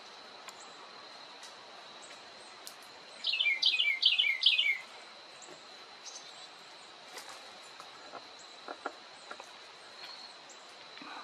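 A songbird sings one short, loud phrase of about five quick down-slurred whistled notes, about three seconds in, with faint scattered chirps from other birds and a faint steady high-pitched tone.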